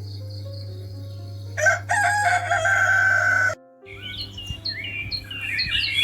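A rooster crows once, about two seconds long, over faint cricket chirping. The sound then cuts off briefly, and small birds start chirping.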